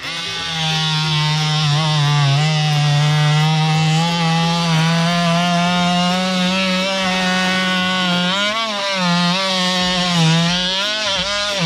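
Worx WX696 oscillating multi-tool running a blade through a piece of firewood, a steady buzzing whine. Its pitch dips briefly as the blade bogs down in the wood, around eight and a half seconds in and again near the end.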